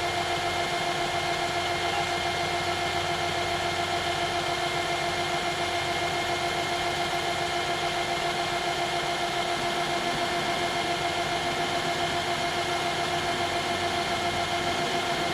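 Metal lathe running steadily while a small drill bit, about 3 mm, is fed slowly from the tailstock into the part: an even motor whine with a steady hum that stays the same throughout.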